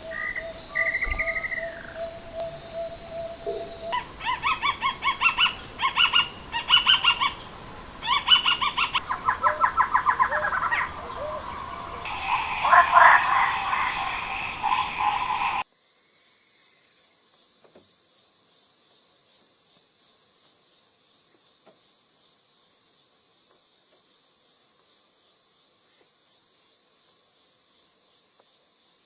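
Wild animal calls: whistled chirps and rapid trilled series of calls. About halfway through there is an abrupt cut to a steady, high-pitched, quieter insect chirring.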